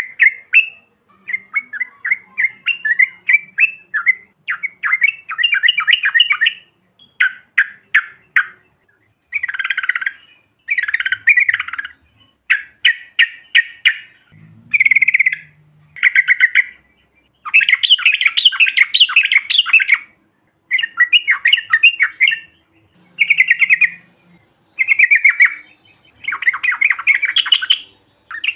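Yellow-vented bulbuls (trucukan) singing: a long series of bubbling, chattering song phrases, each a second or two long, broken by short pauses.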